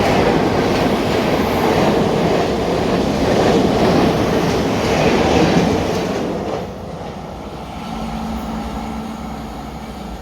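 Thameslink Class 700 electric multiple unit running along the platform, its wheels clattering over the rail joints. The noise drops away about six and a half seconds in, leaving a steady hum.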